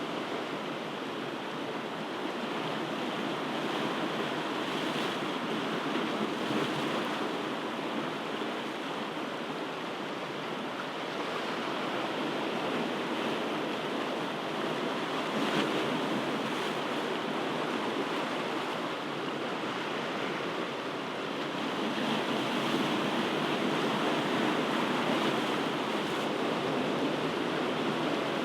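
Ocean surf: waves breaking and washing ashore in a continuous rush that swells and eases slowly.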